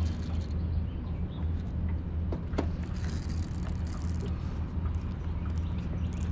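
An engine running steadily with a low, even hum, with a few light clicks over it.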